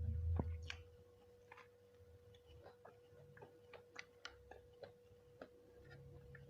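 Eating sounds: scattered soft clicks and taps, with a louder low thump right at the start and a faint steady hum underneath.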